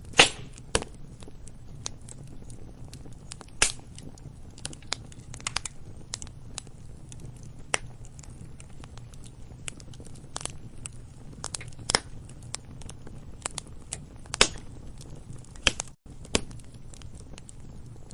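Wood campfire burning and crackling: irregular sharp pops and snaps over a low steady background, with a few louder snaps near the start, about three and a half seconds in and about fourteen seconds in.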